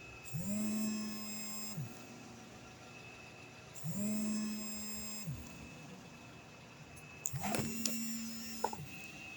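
A small electric motor starting up, running for about a second and a half and winding down, three times at even intervals of about three and a half seconds. Several sharp clicks come during the third run.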